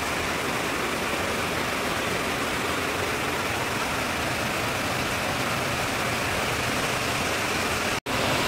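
Steady hiss of heavy rain, broken by a split-second gap near the end.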